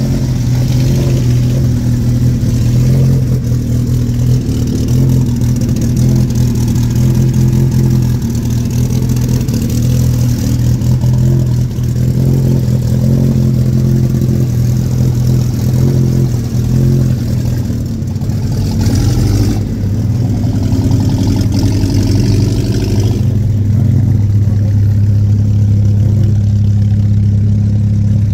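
Several vintage car engines idling in a queue, loud and steady. About two-thirds of the way through, the note climbs for a few seconds, then settles back into a steady idle.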